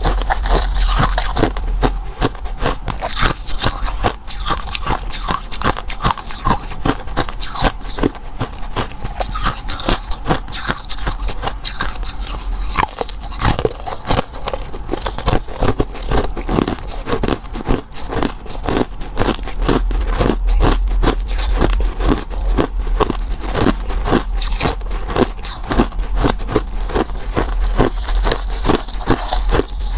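Close-miked biting and chewing of small oval cakes, a dense run of crisp crackles and scrapes.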